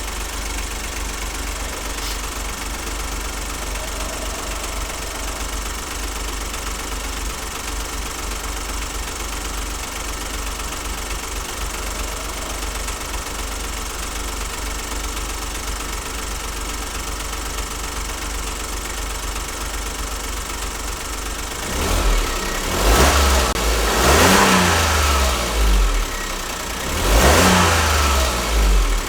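2008 Smart ForTwo's 1-litre three-cylinder engine idling steadily, then revved twice near the end, the note rising and falling each time. The engine has an intermittent 'fish bite' misfire.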